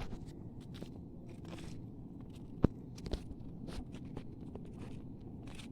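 Footsteps crunching with scattered clicks and scrapes over a steady low rumble, with one sharp click about two and a half seconds in.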